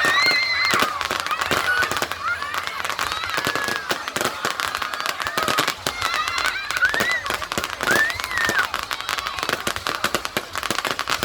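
Fireworks going off in rapid, dense crackling and banging. Short shrill tones that rise and fall sound over them now and then.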